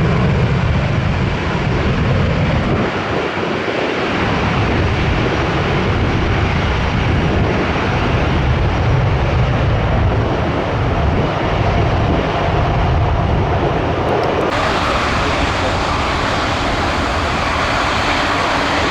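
Loud, steady jet noise of a landing airliner passing close, a heavy low rumble with wind on the microphone. About 14 s in, the sound changes abruptly to another airliner's engine noise.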